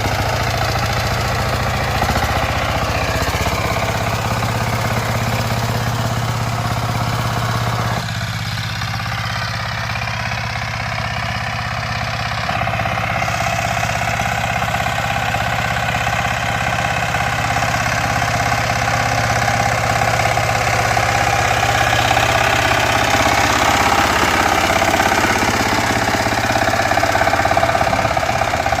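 Power tiller engine running steadily with a knocking beat. Its tone shifts abruptly about eight and twelve seconds in, and it grows slightly louder near the end.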